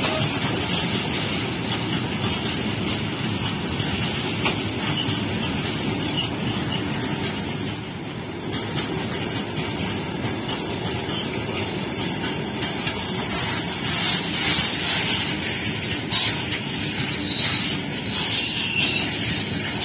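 Empty BCNAM covered freight wagons rolling past at speed: a steady rumble and clatter of steel wheels on rail, with sharp clicks throughout. It grows louder in the second half, where a high-pitched wheel squeal comes in.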